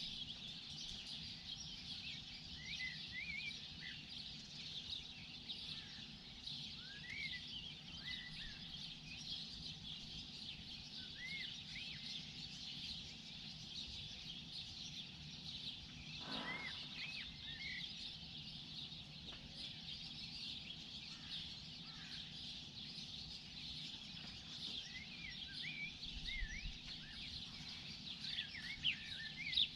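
Morning chorus of many songbirds chirping and twittering continuously, dense high chirps overlapping without pause, over a faint steady background hum.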